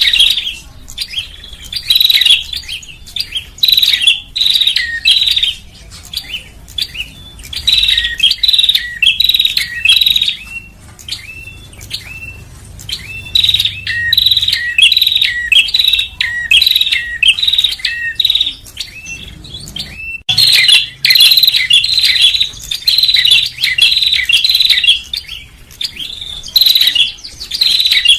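Prinia (prenjak) calling: loud, rapid trains of sharp chirps in bursts a second or two long, broken by short pauses. Some stretches are hooked, falling notes. A recorded lure call meant to draw small birds in.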